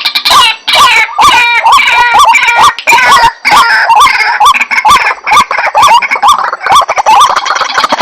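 White-breasted waterhens calling: a loud, unbroken chorus of repeated rising croaks, about three or four a second, with several birds overlapping. This is a recorded lure call for drawing the birds in.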